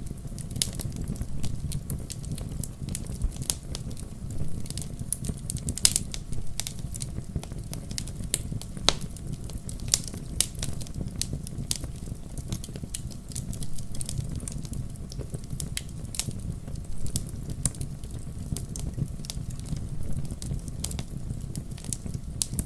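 Wood campfire crackling: irregular sharp pops and snaps over a steady low rumble, with a louder pop about six seconds in.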